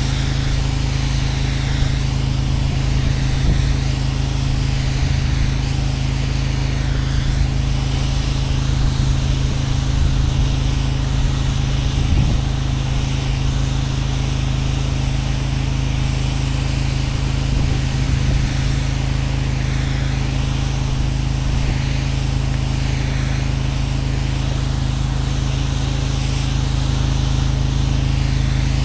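Pressure washer's engine running steadily under load, with the hiss of its water spray as the driveway is rinsed down.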